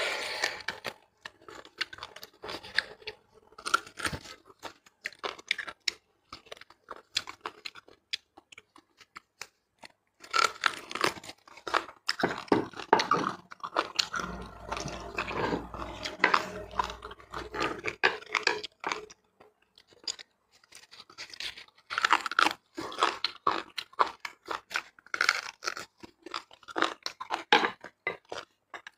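Close-miked eating of spicy beef bone marrow: wet chewing and smacking mixed with crunching, in irregular bursts with two short lulls, around a third of the way in and about two thirds in.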